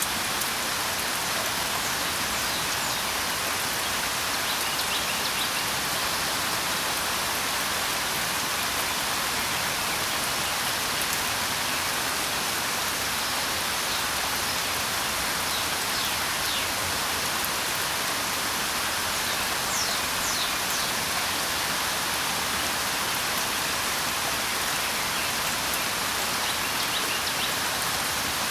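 Steady, even rain, with a few faint, short, high bird chirps now and then.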